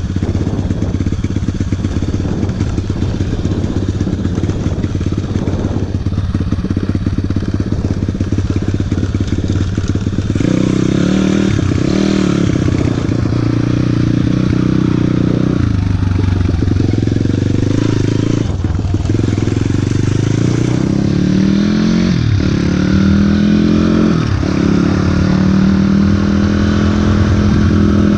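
Four-stroke single-cylinder engine of a YCF 150 Classic pit bike running steadily for about ten seconds, then revving as it is ridden, its pitch climbing and dropping several times.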